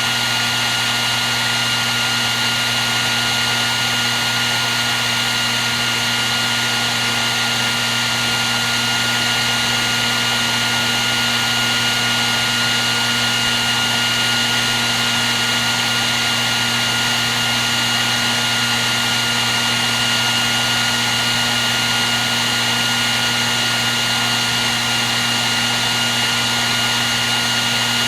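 Hair dryer running steadily: a constant rush of air with an unchanging hum and whine from its motor and fan.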